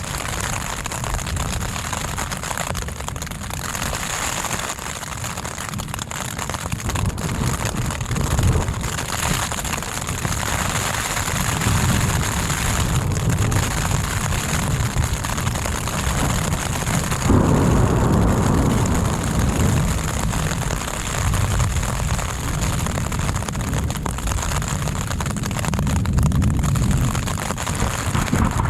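Thunderstorm: steady heavy rain with rolling low thunder rumbles that swell and fade, getting louder about two-thirds of the way through.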